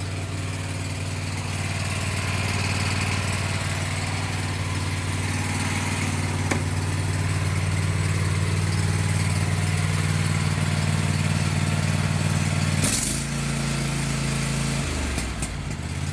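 Kohler 7000 series 725cc V-twin engine of a Cub Cadet riding mower idling steadily at low throttle, purring smoothly soon after a cold start without choke. About three-quarters of the way through its tone shifts for about two seconds, then settles back.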